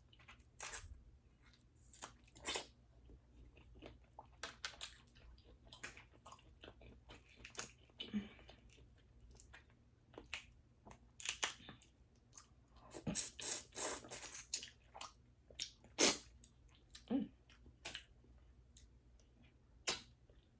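Close-miked eating sounds from a seafood boil of crawfish and mussels: irregular wet chewing, lip smacks and clicks, with a denser cluster a little past the middle.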